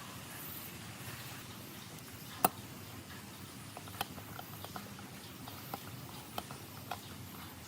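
A few sharp, isolated clicks and light taps over a steady low hiss, the loudest about two and a half seconds in.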